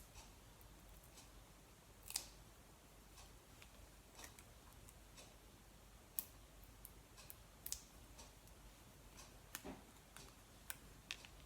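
Faint, irregular light clicks and taps of paper and card pieces being handled and placed by hand, with about a dozen short sharp ticks, the loudest about two seconds in and again about six seconds in.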